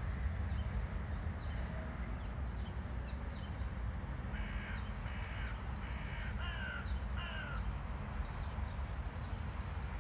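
A bird calls about five times in a row around the middle, short harsh calls, some falling in pitch. From about six seconds a fast, high, evenly repeated chirping runs on, over a steady low rumble.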